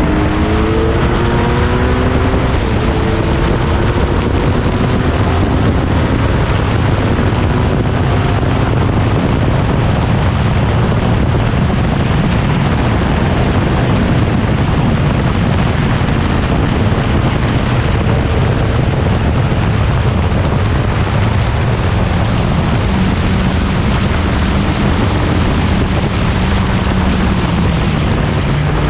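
Huffaker Genie Mk13 racing car's engine running at speed under heavy wind rush, its note falling over the first few seconds and then mostly buried in the rushing noise.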